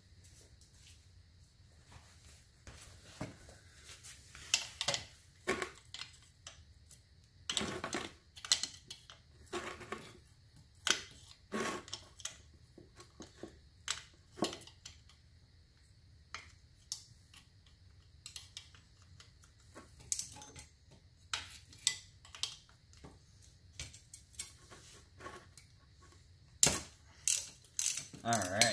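Irregular sharp metallic clinks and clanks of a wrench working a bolt on a car's shifter housing, with a few quick clusters of clicks, as the bolt is broken loose.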